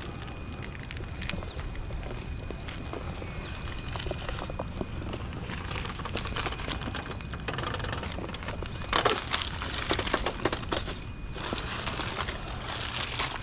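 Scale RC crawler truck crawling over rock and dirt: irregular crackling and crunching from its tyres and chassis on the terrain, heaviest about nine to ten seconds in.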